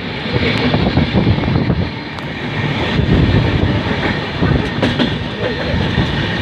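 Passenger train running along the track: a steady rumble and rattle of wheels and carriages, with a few brief sharp clicks.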